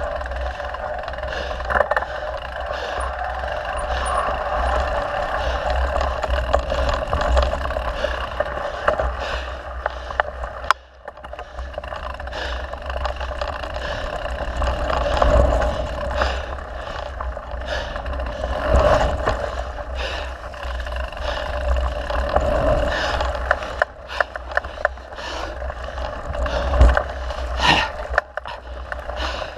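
Mountain bike riding over a dirt trail: wind rumbling on the microphone and tyre noise, with frequent clicks and rattles from the bike going over bumps.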